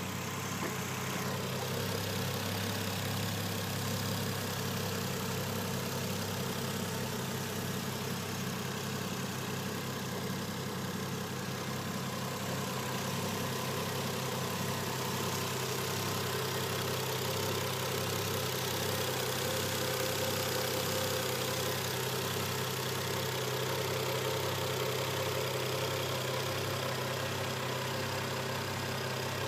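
Toyota Mark II (X110) engine idling steadily, with an even, unchanging hum.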